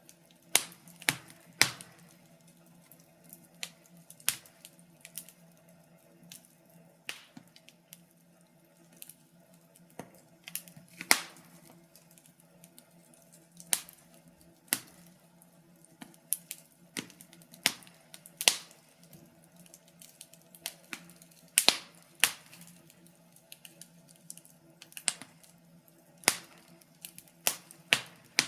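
Wood fire crackling in a fireplace: sharp, irregular pops and snaps about once a second over a faint low hum.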